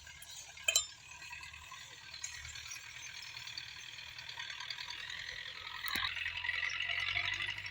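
Metallic rattling and clinking from a Belarus 510 tractor working in the field, growing louder toward the end, with a sharp click about a second in and another near the end; the engine is only a faint low hum underneath.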